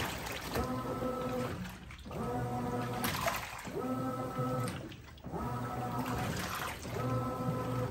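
Brastemp 17 kg top-load washing machine agitating its wash load: the motor hums in runs of about a second, pausing briefly between them as the drive changes direction, with water sloshing in the drum.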